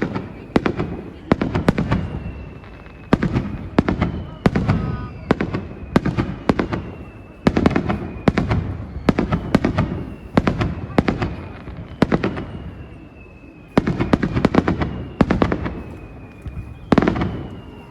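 Fireworks display: aerial shells bursting in rapid volleys of sharp bangs, each volley trailing off in a deep rumble before the next.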